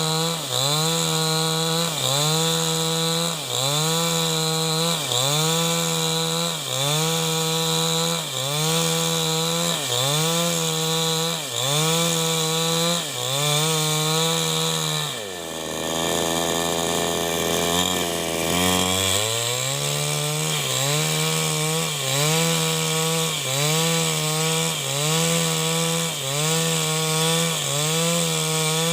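New West 788 two-stroke chainsaw running at full throttle while ripping timber lengthwise, its engine speed sagging and recovering about every second and a half under the load of the cut. About halfway through it drops to idle for a few seconds, then revs back up and carries on cutting.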